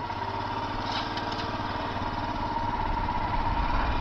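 Royal Enfield Himalayan's single-cylinder engine running at a low, even beat, growing louder near the end as the motorcycle pulls away.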